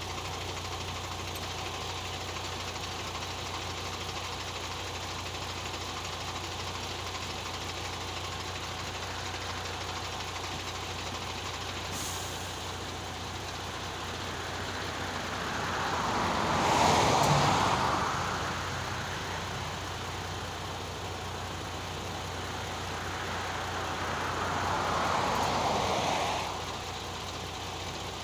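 MAN truck's diesel engine idling steadily. Twice, about halfway through and again near the end, a louder rushing noise swells up and fades away, like other vehicles passing by.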